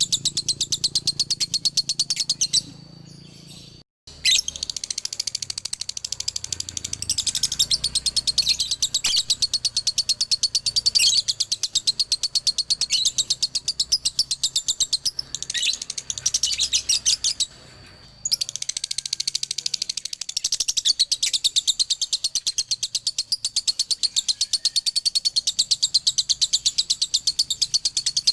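Male lovebird singing its long, rapid chattering 'ngekek' song: fast, evenly repeated high chirps that break off twice briefly, near three seconds in and again about seventeen seconds in.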